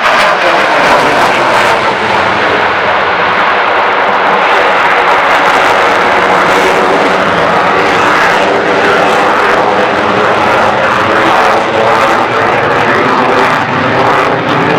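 Aircraft engine noise from a display aircraft flying overhead, loud and steady, with a falling engine tone in the first couple of seconds.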